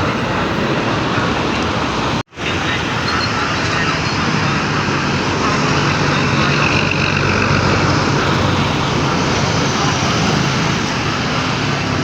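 Road traffic noise with a heavy truck's diesel engine running steadily. The sound cuts out for a moment about two seconds in, then resumes.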